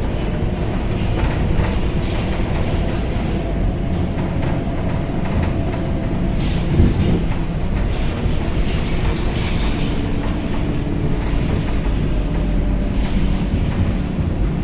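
Inside a moving Scania K270UB city bus: the engine runs steadily under the rumble and rattle of the ride, with a single sharp knock about seven seconds in.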